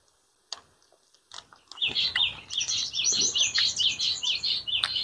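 Small birds chirping in a fast, continuous chatter of short repeated notes, starting about two seconds in after a few faint clicks.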